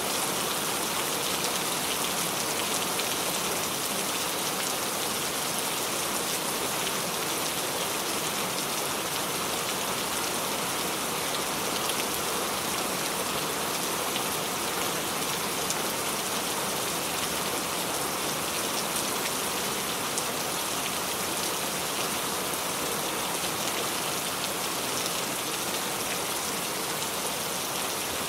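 Steady rain falling on a surface, an even hiss with scattered light drop ticks, unchanging throughout.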